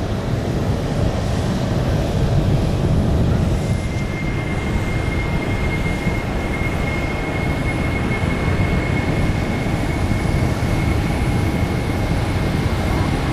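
Large jet aircraft's turbofan engines running with a steady, low roar. A thin, steady whine joins in about four seconds in.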